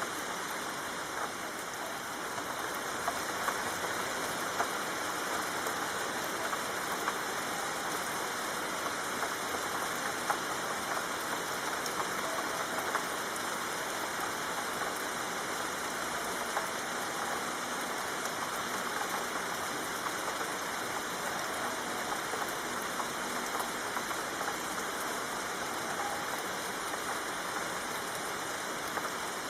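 Soft, steady rain falling: an even hiss with scattered louder drop ticks.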